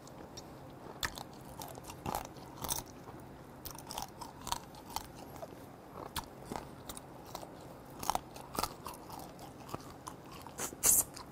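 Close-up chewing and sucking of soy-sauce-marinated raw blue crab (ganjang gejang), with irregular crunches and clicks as the crab shell is bitten; a louder crunch near the end.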